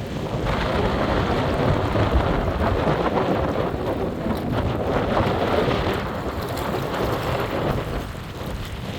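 Long, low roll of thunder from an approaching storm, dying down over the last few seconds.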